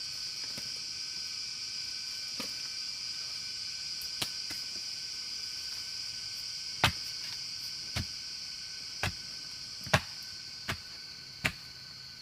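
A steady, high-pitched insect drone, with a series of sharp knocks about once a second in the second half.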